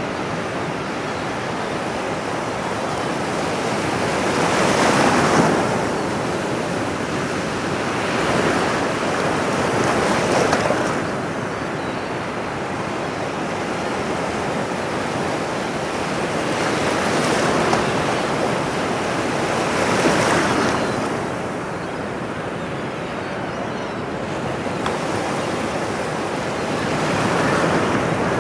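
Ocean surf: waves breaking and washing up a shore over a steady hiss, swelling louder every few seconds as each wave comes in.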